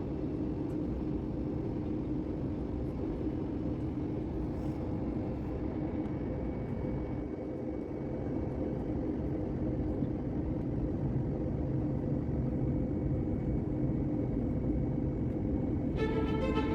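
Cabin noise of an Airbus airliner during descent: the steady rumble of jet engines and airflow with a low hum. Background music comes in near the end.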